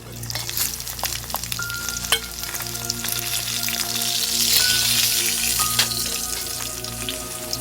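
Food sizzling in a hot pan with scattered crackles and pops, growing louder about halfway through. A soft, steady musical drone runs underneath.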